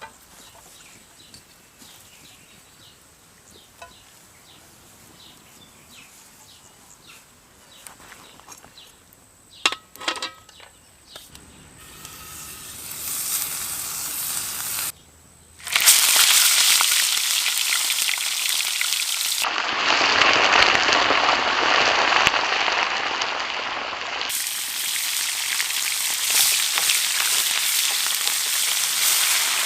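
Food frying in a hot pan. It starts quiet, with faint crackles and a couple of knocks. Then sizzling builds from about twelve seconds in, breaks off briefly, and returns loud and dense through the rest.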